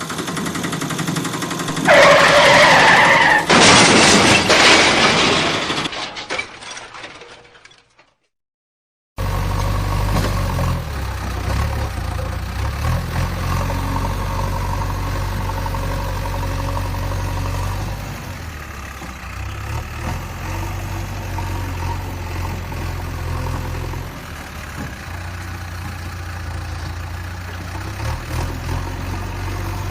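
A loud, noisy sound with a short tone in it swells about two seconds in and fades away. After about a second of silence, a vehicle engine runs steadily at a low pitch for the rest of the stretch, dropping a little in level twice.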